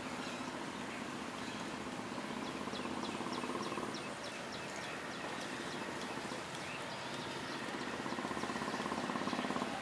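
A bird calling in a quick run of short, high notes, about six a second, from two to four seconds in, over a steady low hum that pulses rapidly and grows louder near the end.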